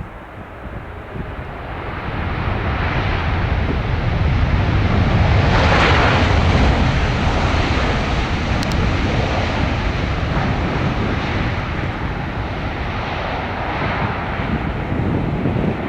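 Airbus A350-1000 arriving, its two Rolls-Royce Trent XWB jet engines growing louder to a peak about six seconds in, then staying loud.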